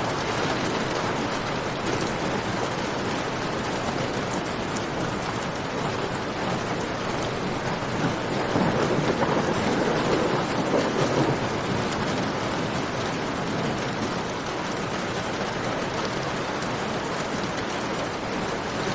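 Steady rain with campfire crackle: a dense even hiss of rain with small sharp pops scattered through it. For a few seconds around the middle a louder, lower swell rises and fades, like a distant rumble of thunder.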